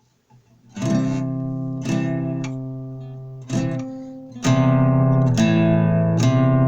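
Acoustic guitar played slowly, with a chord stroke roughly every second, each ringing and dying away. It gets louder and fuller about four and a half seconds in.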